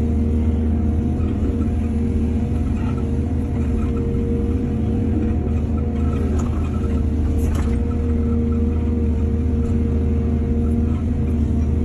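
Heavy diesel engine of earthmoving machinery running steadily under load, with a brief sharp metallic sound about seven and a half seconds in.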